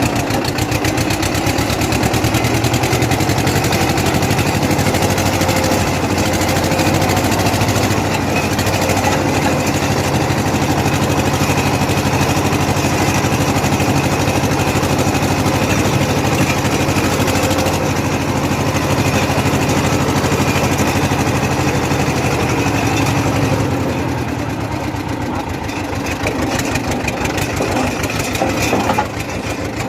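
Tractor engine running steadily, turning quieter about three-quarters of the way through.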